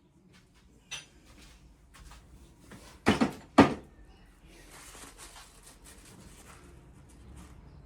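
Two sharp clunks about half a second apart, as metal tools or parts are handled and set down during engine work, after a faint click. A soft hiss follows for about two seconds.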